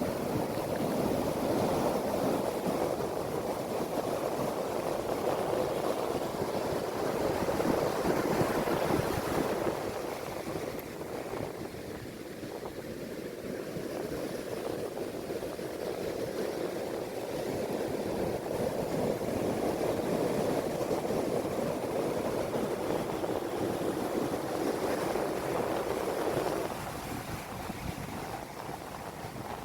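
Ocean surf: waves washing in on the shore as a continuous rush that swells and eases in slow surges, dropping off near the end.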